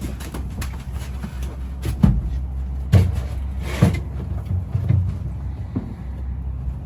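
Several knocks and thumps over a steady low rumble, the loudest about two and three seconds in.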